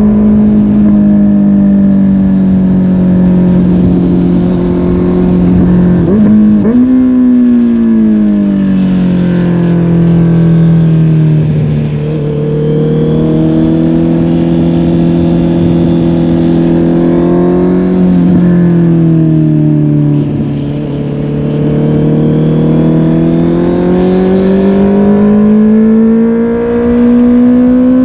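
Honda CB650R's inline-four engine through a MIVV GP PRO Carbon aftermarket exhaust on the move, with the engine note changing as the bike goes. There is a brief rev spike about six seconds in, then the revs fall and hold steady. A second spike comes near eighteen seconds, followed by falling revs. Near the end the note climbs steadily under acceleration.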